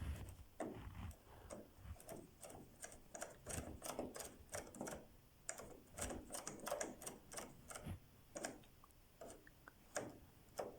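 A quick, irregular run of light clicks and knocks, clustering thickly in the middle, like small hard parts being handled.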